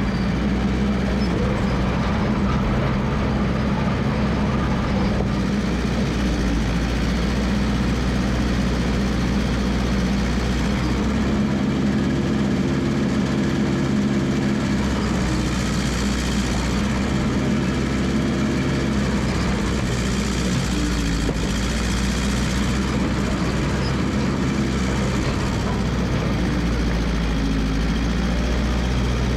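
Massey Ferguson MF 300 crawler dozer's engine running steadily, its note shifting a little around the middle as the machine works.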